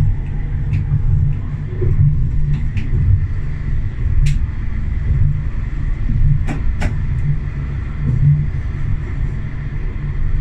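Tram running along its track, heard from the driver's cab: a steady low rumble. A sharp knock comes about four seconds in, and two more close together about two seconds later.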